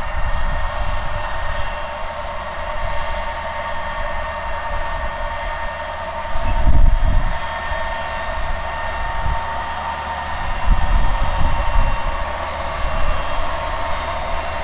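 Case IH Magnum 305 tractor's diesel engine running steadily under load with a steady whine while pulling the planter. Wind buffets the microphone in gusts, strongest about seven seconds in.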